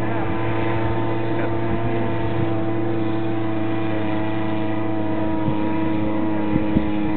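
Truck engine running at a steady speed, holding an even drone, with a few faint knocks near the end.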